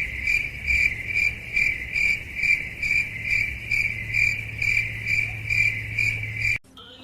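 A high, steady insect trill that pulses about two and a half times a second over a low hum, cutting off suddenly near the end.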